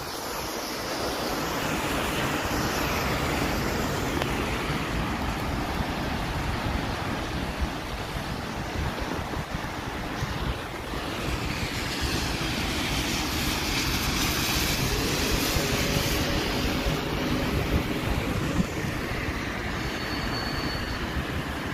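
Steady rush of heavy rain and wind, with wind buffeting the microphone in a low rumble. About halfway through, a broad swelling whoosh rises and fades.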